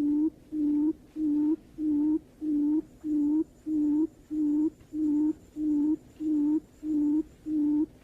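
Barred buttonquail's booming call: a short low hoot repeated at a steady, unbroken rate of about two a second, the kind of call used to lure buttonquail in.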